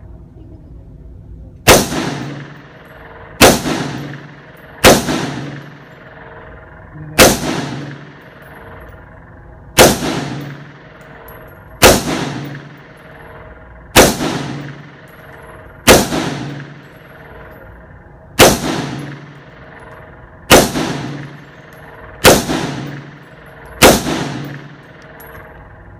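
Twelve single gunshots in slow, deliberate fire, about one every two seconds, each followed by an echo that dies away over about a second.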